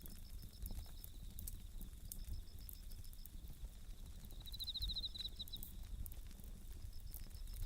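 Wood fire crackling with scattered small pops, while bell crickets (suzumushi) chirp steadily at one high pitch, swelling into a louder pulsing trill about halfway through.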